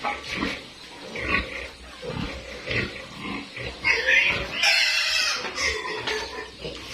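Piglet squealing again and again, with its loudest, shrillest squeal about four to five and a half seconds in.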